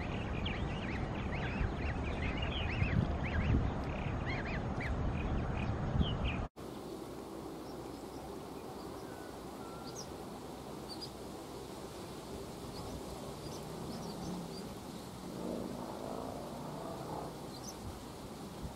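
Ducks calling, with many short high calls over the first six seconds or so. The sound cuts off abruptly about six and a half seconds in, then gives way to a quieter stretch with faint high chirps and a lower call near the end.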